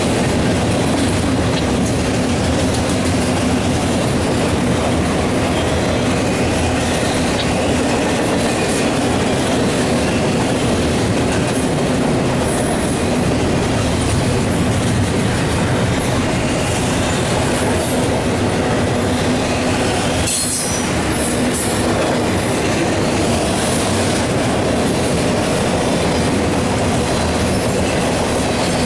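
Double-stack intermodal container train rolling past at speed: a steady, loud rumble and clatter of steel wheels on the rails. Brief high-pitched wheel squeals come through now and then.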